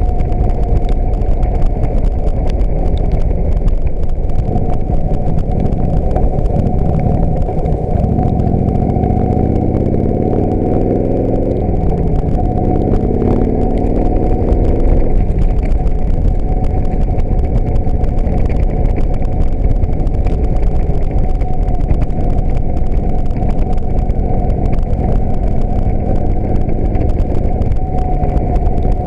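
Harley-Davidson Heritage Springer's air-cooled V-twin engine running under way with a rush of wind. About a third of the way in it rises in pitch twice as the bike accelerates up through the gears, then settles to a steady cruise.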